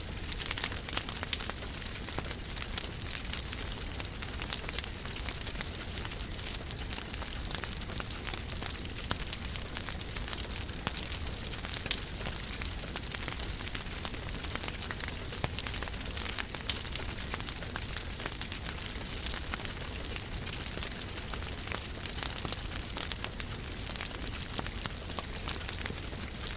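Fire crackling in a fireplace: a steady hiss full of small crackles, with three louder pops, about a second in, near the middle, and about two-thirds of the way through.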